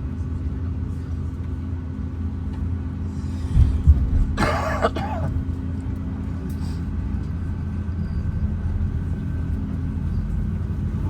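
Steady low rumble of an Airbus A350-900 cabin at the gate, with a faint steady tone that stops near the end. About four seconds in comes a thump, then a short, louder noisy burst lasting about a second.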